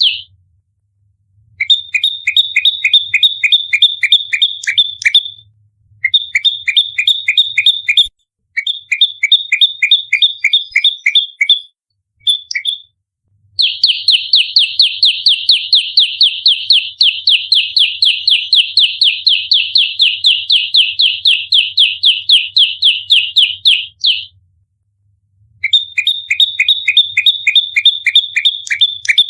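Prenjak lumut singing its fast 'fighting' song: rapid series of repeated high, sharp chips, about ten a second, broken by short pauses. The longest series, in the middle, runs on for about ten seconds.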